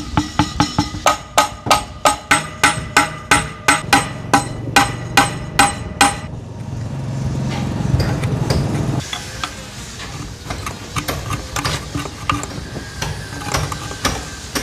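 Hammer striking metal in a steady rhythm, about three ringing blows a second, for about six seconds. Then a low rumble for a few seconds, followed by scattered lighter metal taps and clinks.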